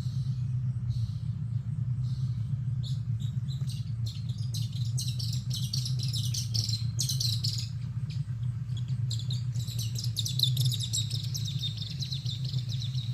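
Birds chirping in quick runs of many short notes, thickest about a third of the way in and again near the end, over a steady low hum of the boat's motor.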